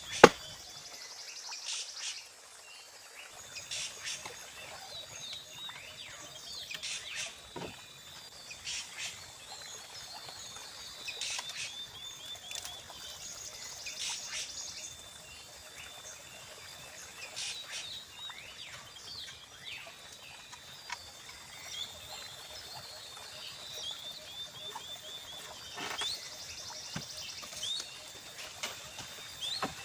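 Forest ambience: birds chirping and insects trilling over a faint steady high-pitched drone. A sharp knock comes right at the start, and short sharp clicks recur every second or two.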